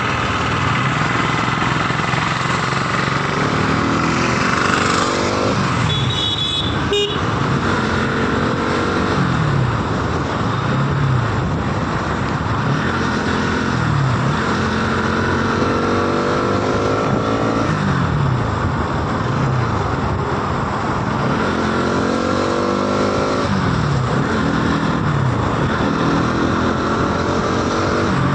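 Motorcycle engine accelerating hard through the gears: its pitch rises and drops back at each upshift, about six times, over a steady rush of wind and road noise. A brief high-pitched beep sounds about six seconds in.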